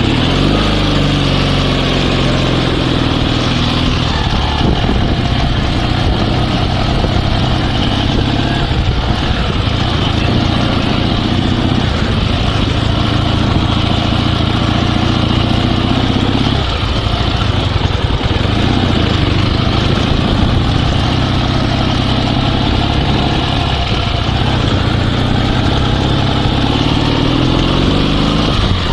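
Dnepr 16 sidecar motorcycle's flat-twin boxer engine running again after its fuel starvation was bypassed, with the fuel line fed straight to the carburetors. The engine pitch climbs and drops several times.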